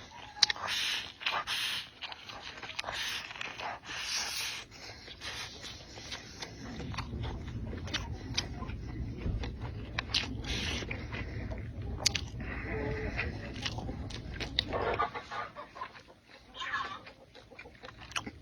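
Close-up eating sounds: chewing and slurping, with frequent sharp clicks of chopsticks against a bowl. A low rumble underneath stops about fifteen seconds in.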